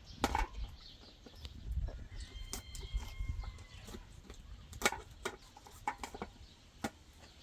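Scattered sharp knocks and taps about once a second, with a single held call on one pitch lasting about a second, beginning a little after two seconds in, over a low rumble.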